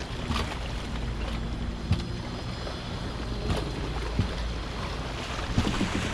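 Wind buffeting the microphone as a steady low rumble, with a few short, sharp knocks scattered through.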